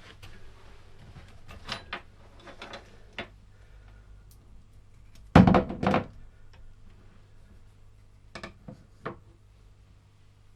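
Parts and tools being handled on a workbench: scattered clicks and knocks, with a heavy double thunk about five and a half seconds in and a few sharper knocks near the end.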